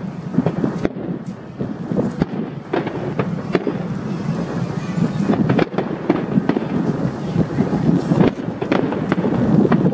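Fireworks display: a dense, continuous run of bangs and crackles, several a second, with no let-up.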